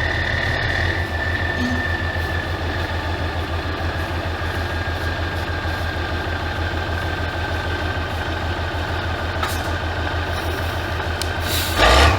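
Truck engine idling with a steady, rhythmic low throb, with a thin high whine that fades over the first few seconds. A short, louder rush of noise comes near the end.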